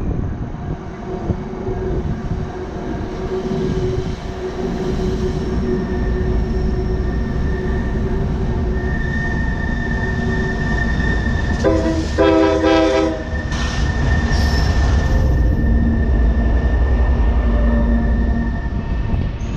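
CSX diesel freight locomotive approaching and passing with a steady low rumble, sounding one short horn blast of about a second and a half around two-thirds of the way through. Its string of empty open hopper cars rolls by behind it.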